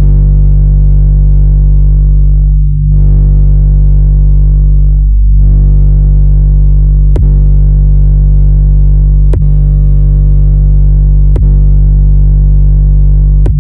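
Loud synthesized bass drone: a steady, deep electronic tone with overtones, briefly dipping twice early on the way. In the second half a sharp click cuts through about every two seconds.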